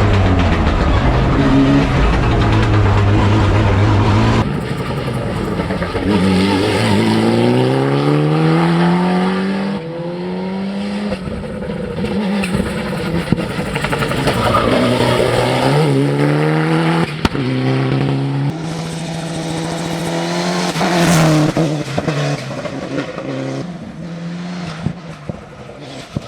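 Mitsubishi Lancer Evo VI hill climb prototype's engine under hard acceleration: its pitch climbs through each gear and drops back at every upshift, several times over. The sound changes abruptly about four seconds in and again around eighteen seconds, as the view switches between recording positions.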